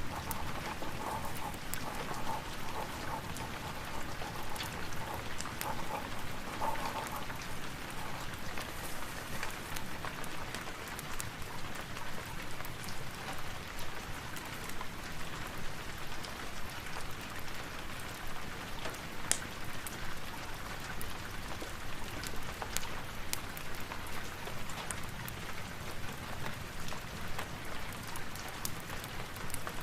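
Steady rain falling, with scattered sharp crackles and ticks throughout. A faint pitched sound sits under the rain for the first seven seconds or so.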